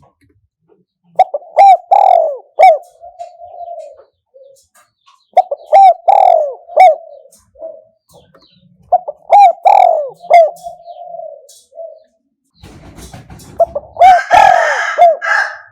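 Spotted dove cooing: three phrases, about four seconds apart, each of a few short clipped coos followed by a longer trailing coo. It is a decoy call meant to lure wild doves. Near the end a loud rustling noise overlaps a fourth phrase.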